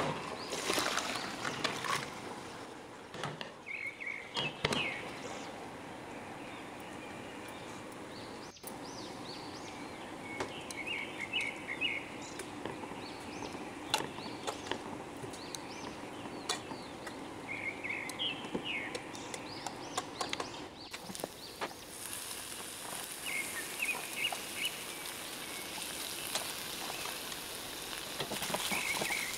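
Short bursts of bird chirping every few seconds over faint kitchen noise, with a few knocks of metal cookware. About two-thirds of the way through, a steady sizzle of food frying in a wok starts.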